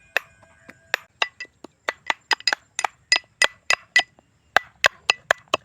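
Ginger and garlic being pounded with a pestle in a mortar: a run of sharp, ringing strikes, about three to four a second, with a brief pause partway through.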